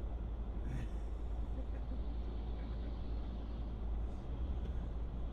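Steady low rumble of road and engine noise inside a moving car, as picked up by a dashcam.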